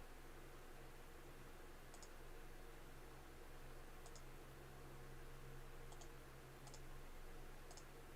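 Faint computer mouse clicking, a short pair of clicks about every one to two seconds, over a low steady hum.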